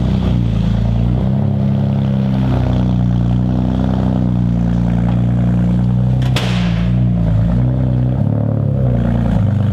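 BMW Z3 M coupé's straight-six engine running at low revs as the car is driven slowly, its pitch stepping up and down a few times, with a sharp knock about six seconds in.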